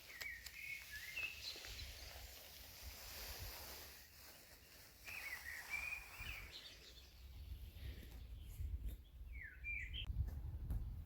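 Small songbirds singing short chirping phrases three times, over a low steady rumble.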